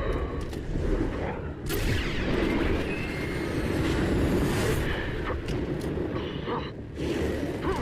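Jet engine roar with a deep rumble, swelling into a loud sweep from about two seconds in and easing off near the end.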